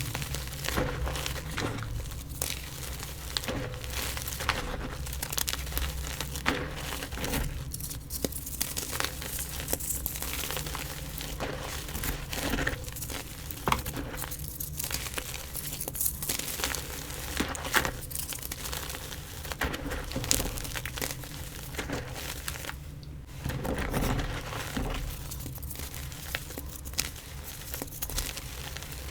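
Gym chalk being crushed and crumbled: a continuous dense crunching crackle full of small sharp snaps.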